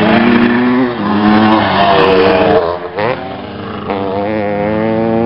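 Classic motocross motorcycle engines revving as the bikes accelerate, the pitch climbing. It drops away briefly about three seconds in, as on a gear change or throttle lift, then climbs again.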